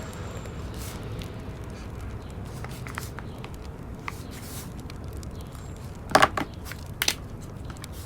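Wood fire crackling over a steady low rumble, with scattered small ticks and two louder sharp crackles about six and seven seconds in.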